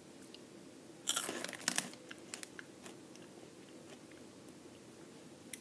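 A crunchy Flamin' Hot Cheeto bitten and chewed: a loud crunch about a second in, then a few softer crunches as it is chewed.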